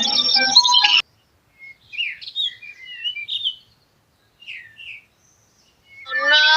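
Background music cuts off suddenly about a second in, followed by a few seconds of scattered short bird chirps, then a loud pitched sound starts near the end.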